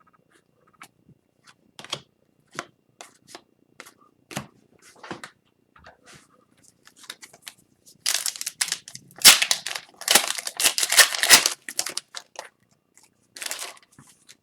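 Light clicks and taps of trading cards being handled, then a hockey card pack's wrapper being torn open and crinkled for a few seconds from about eight seconds in, with a shorter crinkle near the end.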